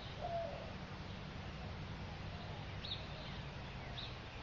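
Faint steady low rumble with a few bird calls over it: a short call early on and two brief high chirps about three and four seconds in.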